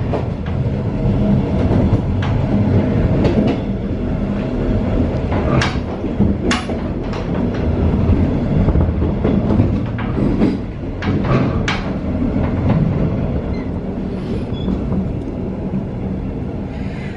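Passenger train running along the line, heard from inside the coach: a steady low rumble of wheels on rails, with sharp clicks and knocks every second or few.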